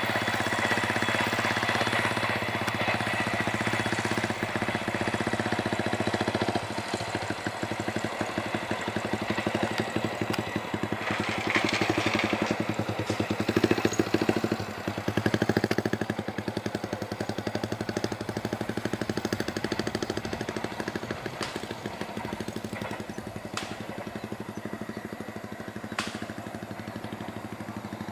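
A diesel-hauled passenger train moving away along the track: a steady engine hum with wheels clattering over the rails, fading gradually, with a few sharp clicks in the second half.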